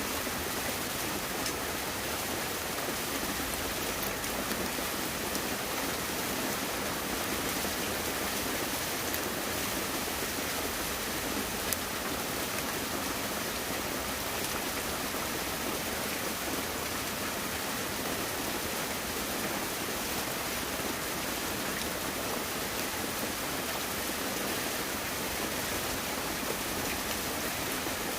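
Steady rushing noise of water, even throughout, with one brief click about twelve seconds in.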